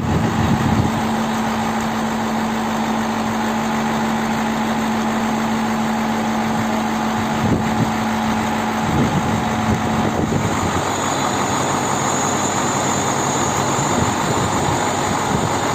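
A vehicle engine running steadily at idle with a constant low hum. About ten seconds in the hum drops away and a faint high whine joins.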